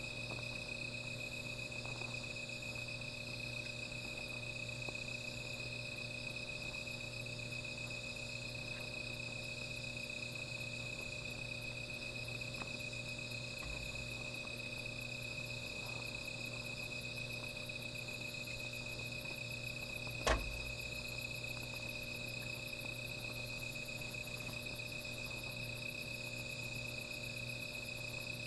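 Night insects, crickets, chirring in a steady, continuous high trill. One sharp crack sounds about two-thirds of the way through.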